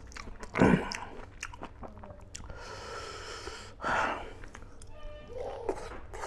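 Close-miked chewing and biting of a mouthful of smoked pork curry and rice, eaten by hand, with wet mouth noises and short louder bites.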